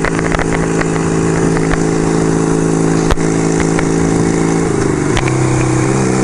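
1975 Kawasaki KZ400 parallel-twin engine running steadily while riding, over a haze of wind and road noise. About five seconds in the engine note drops to a lower steady pitch. There is a single sharp click about three seconds in.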